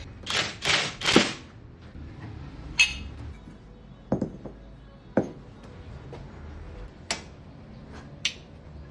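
Metal tools knocking and clanking on a car's wheel hub during a wheel bearing replacement: three longer, loud strikes in the first second and a half, then about five sharp single knocks spaced out over the rest.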